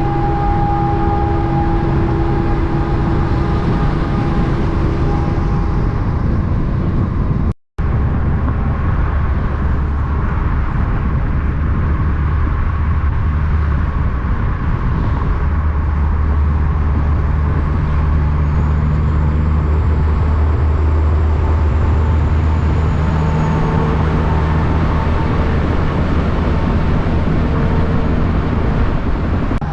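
Heavy truck engine running steadily, with a strong low hum. The sound cuts out abruptly for a split second about eight seconds in, then resumes.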